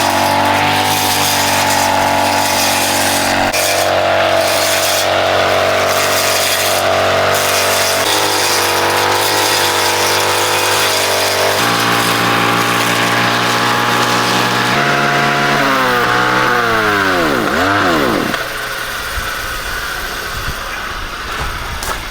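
A motor running steadily, its pitch shifting up and down in steps several times, then switched off and winding down in a falling whine about 18 seconds in.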